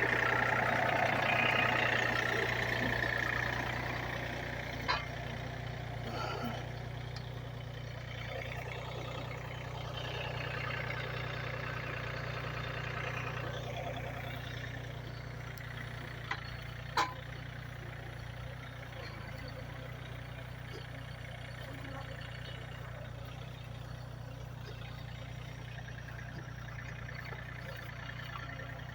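A vehicle engine idling steadily, with a sharp knock about five seconds in and another, louder one about seventeen seconds in.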